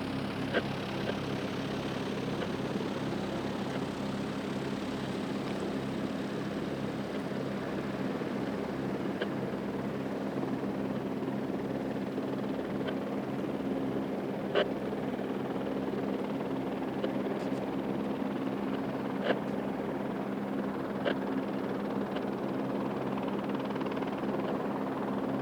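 Airbus AS350B3 helicopter running steadily, its single turboshaft engine and rotor giving a constant low hum with a fast, even blade beat. A few short sharp clicks cut through it.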